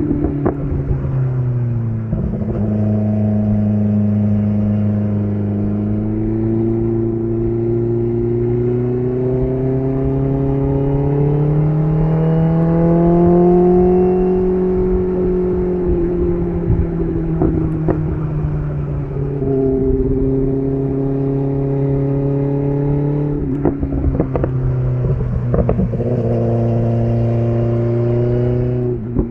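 BMW S1000RR inline-four engine running through an SC Project titanium exhaust under way at moderate revs. Its pitch drops about two seconds in, climbs slowly to a peak around the middle, eases back, and drops again about two-thirds through, with a few short sharp clicks shortly before the end.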